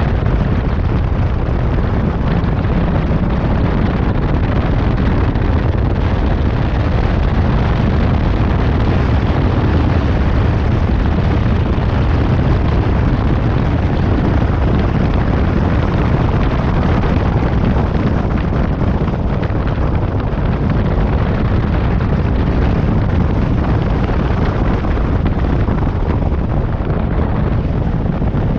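Steady, loud wind rumble buffeting the microphone of a moving motorcycle, with the motorcycle's engine running underneath.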